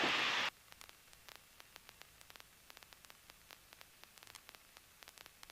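A burst of static hiss over the aircraft intercom that cuts off suddenly about half a second in, then near silence with faint scattered clicks.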